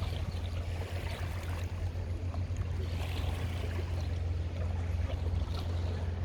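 Water lapping and splashing against a sailboat's hull as it drifts in a calm, over a steady low rumble.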